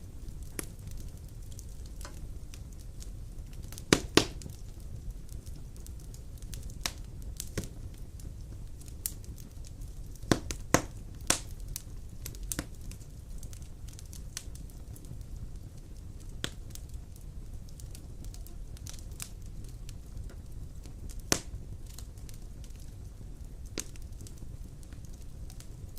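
Large logs burning in a stone fireplace: a steady low rumble of flame with irregular sharp crackles and pops, a few loud double pops about 4 seconds in, around 10 to 11 seconds in and once more near 21 seconds.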